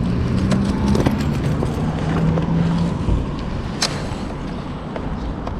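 Honda CB500X motorcycle's parallel-twin engine running, with wind rumble on the microphone. A steady engine hum for the first three seconds, and a single sharp click almost four seconds in.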